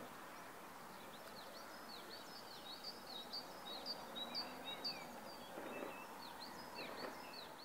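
Faint birdsong: many short, quick, high chirps, several a second, over a soft outdoor hiss.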